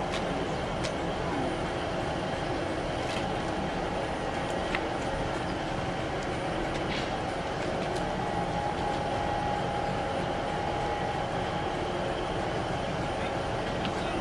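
A train standing at the platform with its engine running: a steady hum with a faint held tone, and a few light clicks.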